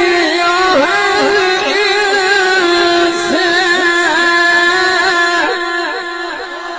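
A single voice in Quranic recitation (tajweed) holds one long melismatic note, wavering and trilling around a steady pitch, then fades away near the end.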